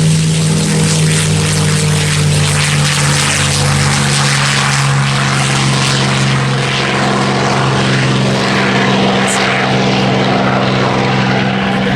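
P-51 Mustang's V-12 piston engine and propeller running at high power in a steady, loud drone as the fighter departs.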